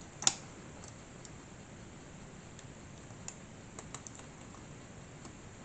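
Small clicks and taps of model parts being handled while a small tube is worked onto a locating pin: one sharp click about a quarter second in, then a few light ticks a few seconds later.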